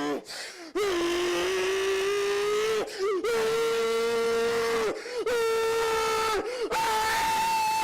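A person's voice wailing in long, held cries, four in a row, each one to two seconds long. The last cry is higher-pitched.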